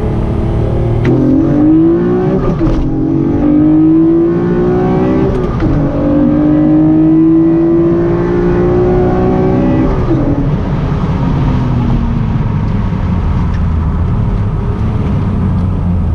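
Acura NSX V6 with a new aftermarket exhaust accelerating hard. The engine note climbs and drops back at each upshift, several times. About two thirds of the way through the driver lifts off and the revs fall away.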